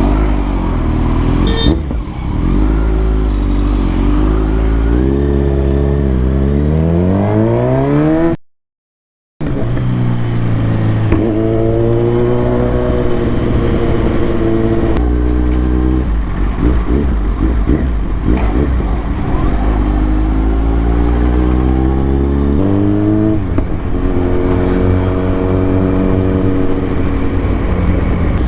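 Kawasaki Z900 inline-four engine pulling through the gears, its pitch rising under throttle and dropping back at each shift or roll-off. The sound cuts out completely for about a second around 8 seconds in.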